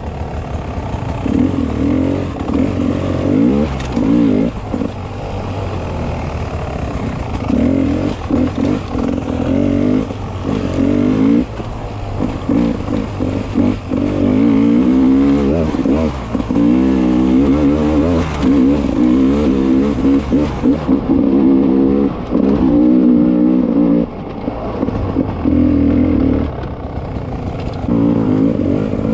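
Beta 300 RR two-stroke enduro motorcycle engine revving up and down over and over as it is ridden along a trail, with occasional knocks.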